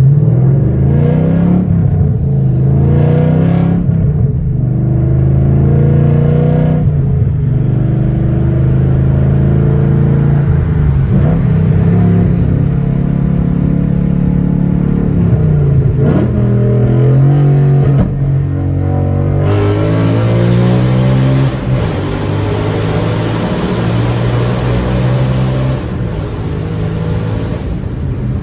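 2013 Ford Mustang Boss 302's 5.0-litre V8, through a Bassani exhaust, accelerating hard in a tunnel. The pitch climbs and drops back at each gear change, several times over.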